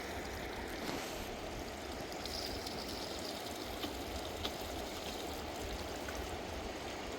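Steady rush of flowing water, like a mountain stream, with a few faint clicks.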